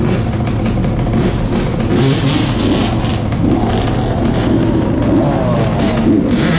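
Motorcycle engine running during a ride, loud and continuous, with a rushing noise over it.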